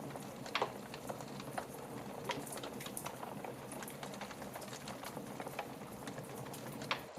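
Wood fire crackling in a fireplace: a steady soft hiss with irregular snaps and pops. The sharpest pop comes about half a second in and another near the end.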